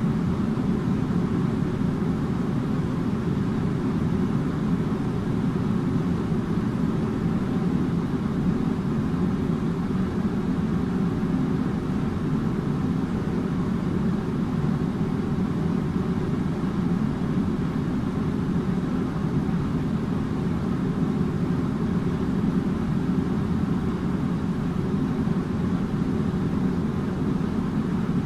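Air conditioner running steadily: an even, low hum and rush of air that does not change.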